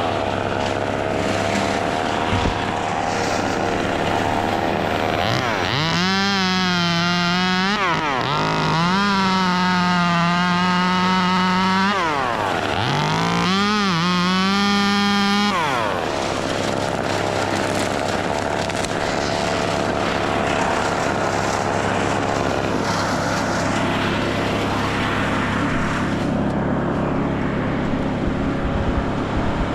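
Gas chainsaw revved to full throttle in three runs in the middle, its pitch rising and falling between them, over a steady low engine drone.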